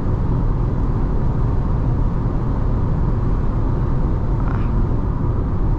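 Nissan Tekton with a 1.3-litre turbo petrol engine driving at highway speed: a steady mix of engine, tyre and road noise with no change in pace.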